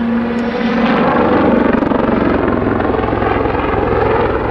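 Army Air Corps Westland Lynx helicopter's rotor and turbine running loud and steady as it flies a backflip, the low rotor throb growing stronger about a second in.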